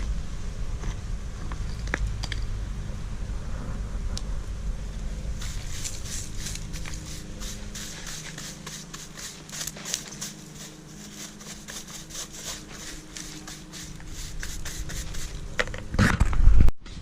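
A hand tool scraping and chipping loose concrete from worn concrete steps: rapid scratchy scrapes and clicks from about five seconds in, with a louder scrape just before the end that cuts off abruptly. A low rumble runs under the first half.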